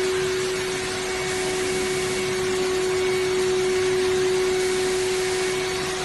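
AOKE DCZ76 digital flatbed cutter running, a steady whine over an even rushing hiss.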